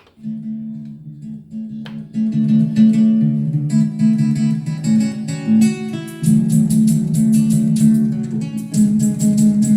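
Guitar music played back through a Yamaha A-30D stereo amplifier and loudspeakers, starting suddenly from silence and growing fuller about two seconds in.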